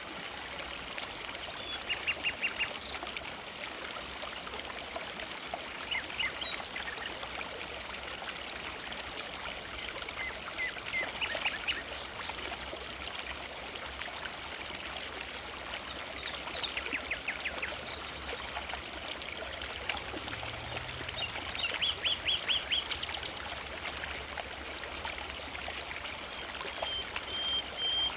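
River in a forest flowing steadily. Short runs of quick bird chirps sound several times over it.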